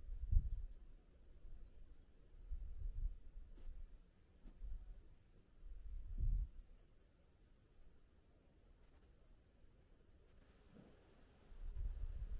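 Wind gusting against the microphone in low rumbling puffs, four times, over a faint, fast, even high-pitched ticking.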